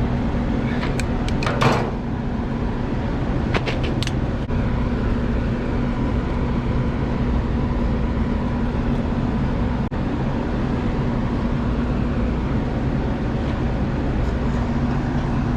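Running HVAC equipment: a steady motor hum with air moving, and a few short clicks and rattles of hand work about a second and about four seconds in.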